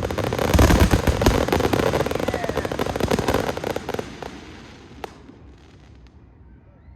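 Fireworks finale: a dense barrage of rapid crackling reports and bangs that thins out and dies away about halfway through, with one last lone crack a second or so later.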